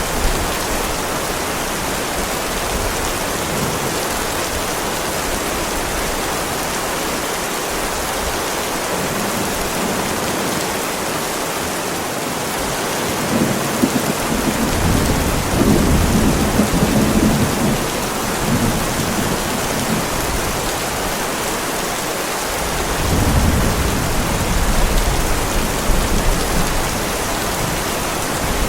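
Heavy rain falling steadily on a driveway, with two low rolls of thunder: one about halfway through that lasts several seconds, and a second, shorter one near the end.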